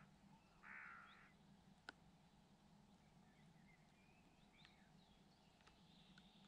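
Faint outdoor ambience: one harsh, crow-like bird call about half a second in, a single sharp click near two seconds, then faint chirps of small birds, over a low steady hum.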